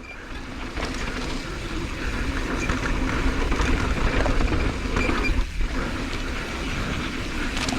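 Mountain bike riding fast down a rough, rocky dirt trail: tyres crunching over dirt and rock, with constant rattling and clicking from the bike, and wind rumbling on the helmet-mounted action camera.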